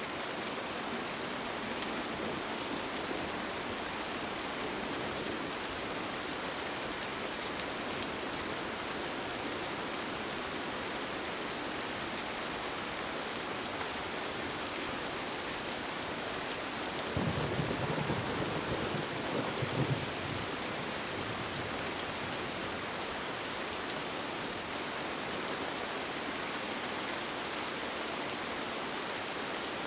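Steady rain falling, with a low rumble of thunder that breaks in about seventeen seconds in and dies away some four seconds later.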